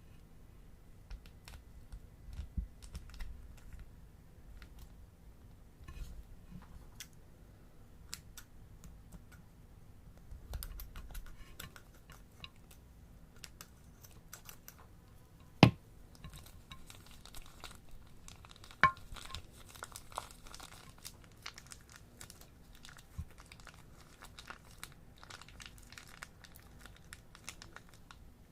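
Slime being handled and pressed for ASMR: soft crinkling and crackling with many small scattered clicks, and two sharper pops about 16 and 19 seconds in.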